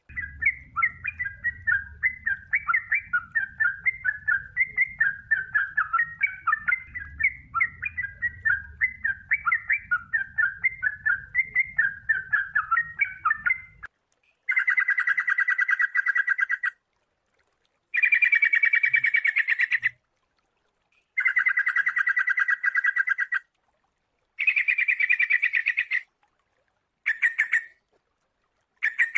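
Sooty-headed bulbul song: a long, continuous run of quick chattering notes for about 14 seconds, then a series of rapid trilled calls about two seconds each, separated by short pauses. A faint low rumble sits under the first half.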